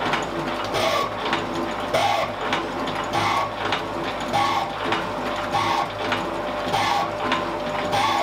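Elliott shaping machine running, its ram stroking back and forth in an even rhythm of about one stroke every 1.2 seconds.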